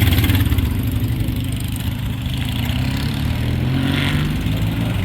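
A motorcycle engine running as the bike rides off, loudest at the start and gradually fading, its note climbing a little partway through.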